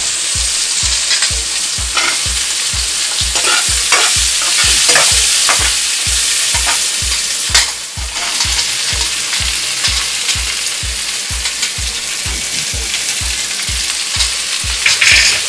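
Ivy gourd (kovakkai) slices frying in hot sesame oil in a kadai, sizzling steadily while a metal spatula stirs them, with short scrapes and clicks against the pan.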